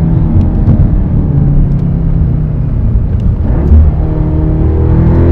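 Audi S3's turbocharged 2.0-litre four-cylinder engine running hard while driving, its pitch rising near the end as the car accelerates.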